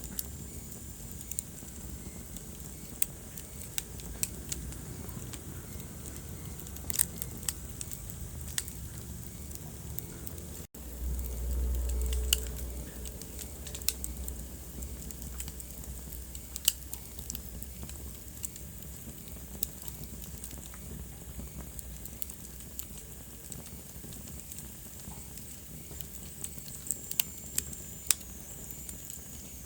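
Wood fire in a fireplace crackling, with irregular sharp pops over a steady low rumble of the flames. A faint high whistle comes at the start and again near the end. About a third of the way in the sound cuts out for an instant, then comes back with a louder low rumble for a couple of seconds.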